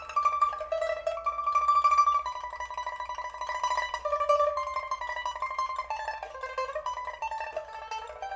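Antique pipa with a Siamese rosewood body, a new soundboard and new frets, played solo: a melody of held notes sounded as fast tremolo, in a post-repair play test of the instrument.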